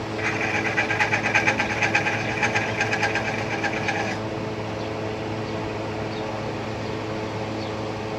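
A rapid mechanical rattle of many quick strokes lasting about four seconds, over a steady machine hum that continues after it stops.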